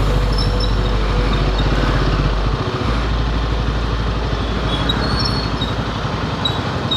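Royal Enfield Himalayan 450's single-cylinder engine running steadily under way, mixed with wind and road noise.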